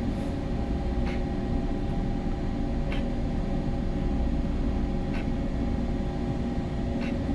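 Steady machinery hum of a bulk carrier under way, heard on its bridge: a low rumble with several steady tones, and faint clicks every second or two.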